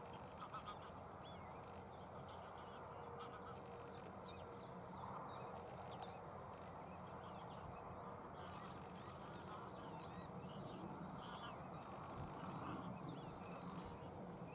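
Faint outdoor birdsong, many short high chirps, with waterfowl calling over a steady background hiss.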